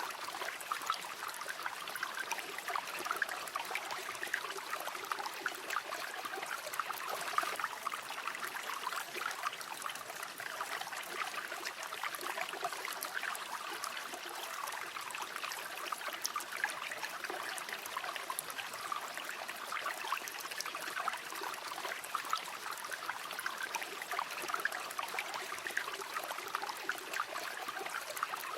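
Shallow river flowing steadily, water babbling and trickling over stones.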